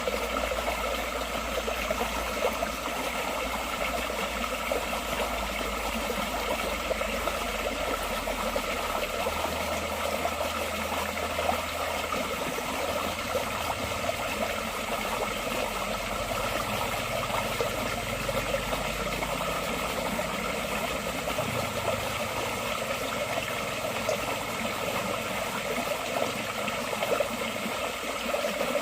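Forest stream flowing steadily, a continuous even rush of water. A fainter low hum underneath shifts in pitch a few times.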